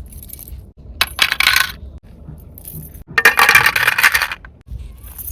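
Two bursts of metallic jingling clatter: a short one about a second in and a longer one about three seconds in.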